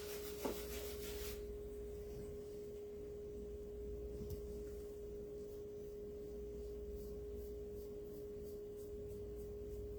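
A faint, steady single-pitched hum that holds one note throughout, with some light scratchy noise in the first second or so.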